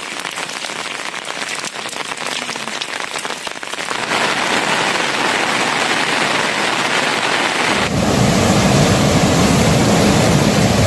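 Rain falling, at first as a patter of separate drops. About four seconds in it changes abruptly to a denser, louder hiss. Near eight seconds a louder, deeper rushing sound comes in.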